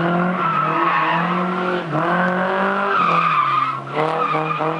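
A car engine running at high revs with a steady pitch that dips briefly about two seconds in and again near four seconds, then climbs back.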